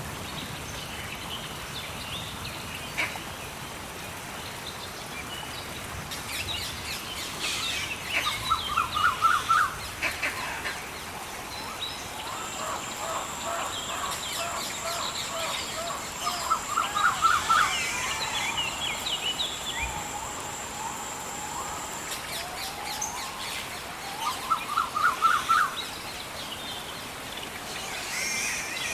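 Rainforest ambience of many birds calling over a steady background hiss. A call of rapid repeated notes comes about every eight seconds, the loudest sound each time, amid scattered higher chirps, and a steady high-pitched whine runs for about ten seconds in the middle.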